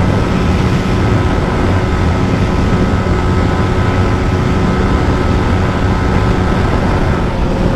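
Yamaha MT-15's 155 cc single-cylinder engine held flat out at top speed, about 144 km/h, running at a steady high pitch against its rev limiter, under heavy wind rush on the microphone.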